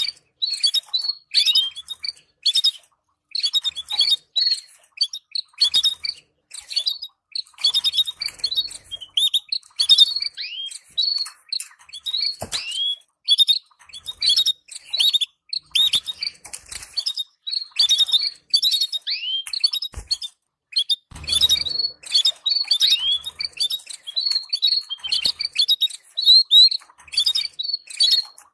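Domestic canaries chirping: a continuous run of short, sharp call notes, many of them quick downward sweeps, repeated in irregular bursts.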